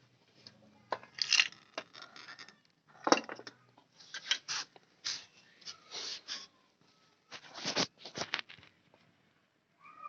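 A series of short clatters and scrapes, like small hard objects being handled and knocked together, about a dozen in irregular groups.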